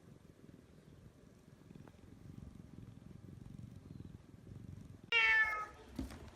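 Domestic cat purring as a low, steady rumble, then a short, loud meow falling in pitch about five seconds in.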